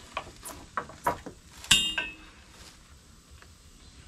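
Metal clinks and rattles as a ratchet strap's steel hook and ratchet are handled against the auger's steel frame, with one loud ringing clank near the middle.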